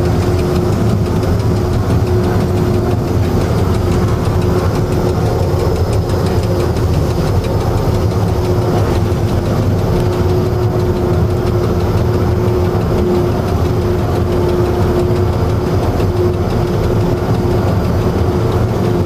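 A locomotive engine idling steadily: an even low rumble with a constant tone above it, unchanged throughout.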